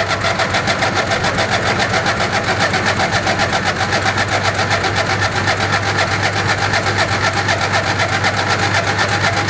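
Craftsman lawn tractor engine being cranked over by its starter in the cold, with an even beat of about seven pulses a second and a steady hum, not catching: a failed cold start.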